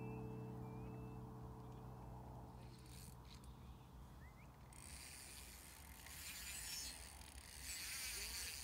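Music fades out in the first second or so. From about halfway, a faint, fast, high-pitched ticking whirr of a fishing reel's clutch giving line as a carp takes the bait, a little louder near the end.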